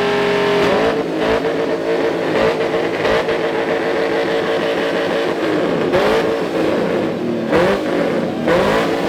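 Truck engine revving hard during a burnout: held at a steady high rev at first, then its pitch swings up and down for the rest of the time, with a few short noisy surges.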